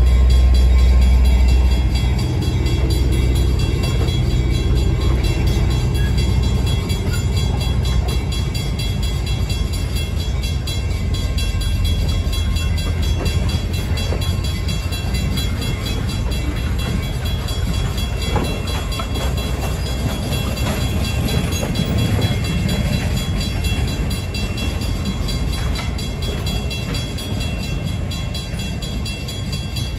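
New Hope & Ivyland Railroad passenger coaches rolling past on the track, a continuous rumble of wheels on rail with scattered clicks. A deep drone drops away about two seconds in, and the rumble slowly fades as the last coaches go by near the end.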